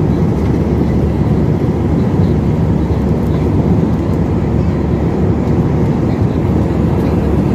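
Jet airliner cabin noise in cruise flight: a steady, even rumble of engines and airflow.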